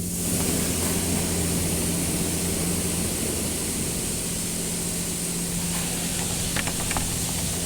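Automatic car wash running: a steady hiss of high-pressure water spray over a low, steady machine hum, starting just before and holding throughout, with a few faint clicks near the end.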